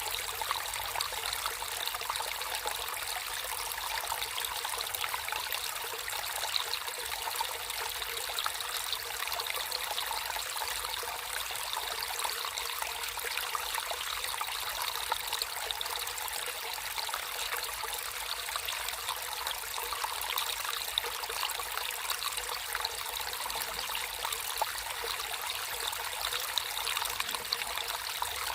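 Water flowing and trickling steadily in a natural stream, a continuous splashing hiss with fine bubbling flickers.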